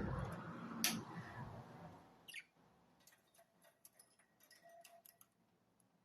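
Budgerigars giving quick, faint, clicky chirps through the second half. The first two seconds hold a louder rustling with a sharp knock about a second in.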